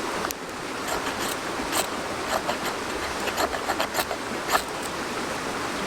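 A ferro rod being struck, a dozen or so short, sharp scrapes at uneven intervals, throwing sparks to light a fire plug.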